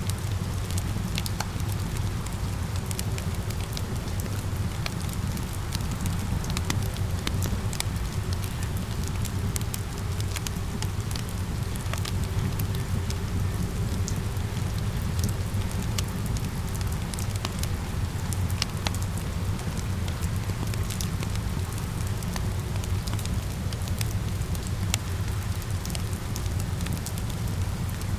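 Fire crackling, with scattered sharp pops over a steady low rumble, mixed with the continuous hiss of falling rain.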